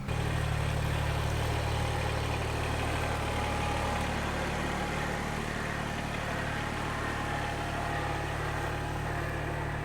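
An engine running steadily with a deep, even hum that starts abruptly.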